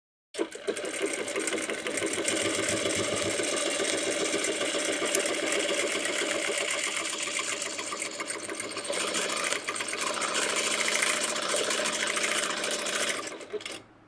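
Domestic sewing machine with no stitch regulator running fast and steady, its needle stitching rapidly while free-motion quilting. It starts just after the beginning and stops near the end.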